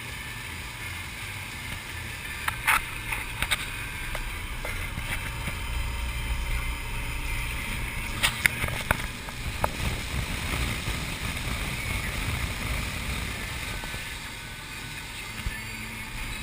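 Speed boat running on the lake, a steady low engine rumble under a noisy rush of water and wind. A few sharp knocks cut through, about three seconds in and again about eight to nine seconds in.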